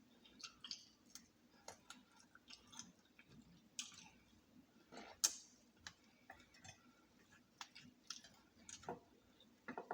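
A person chewing fried chicken: scattered soft crunches and wet mouth clicks at an irregular pace, the loudest crunch about five seconds in.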